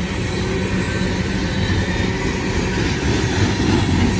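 Loaded open-top coal gondolas of a unit coal train rolling past: steel wheels running on the rails in a steady rumble.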